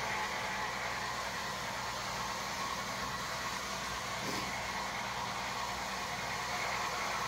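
A steady whirring hiss with a low hum, the running of a small motor.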